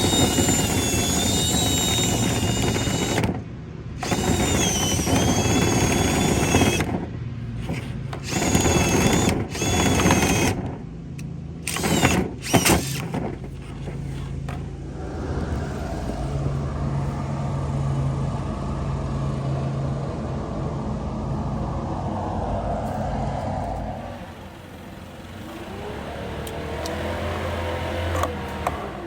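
Power drill driving a rotary dryer-vent cleaning brush: the motor whine wavers in pitch and cuts off and restarts several times, then settles into a steadier, lower hum that fades down near the end.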